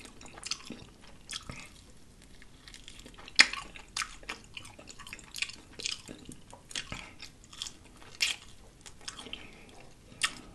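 Close-miked chewing of fried food: wet mouth clicks and small crunches of crispy batter, scattered and irregular, with the loudest click about three and a half seconds in, and finger-licking near the end.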